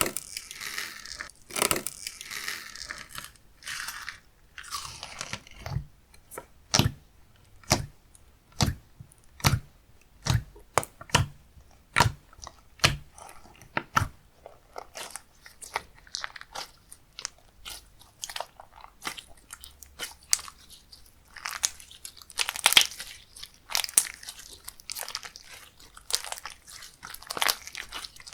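Slime being played with by hand, pressed and stretched so that it gives sharp sticky clicks and pops, about one a second through the middle, then a denser crackle near the end.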